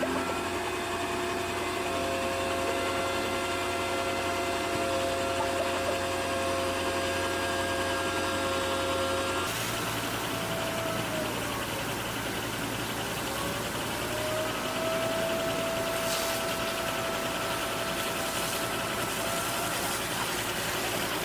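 Radio-controlled model machines running: steady motor whines that drop in pitch and then rise again, over a constant engine-like hum. About nine and a half seconds in, the background changes abruptly.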